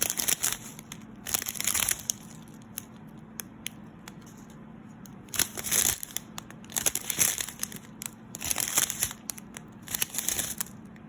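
Crinkling plastic packaging: small plastic bags of diamond-painting drills being handled and turned over. The crinkling comes in several bursts with small ticks, separated by quieter gaps.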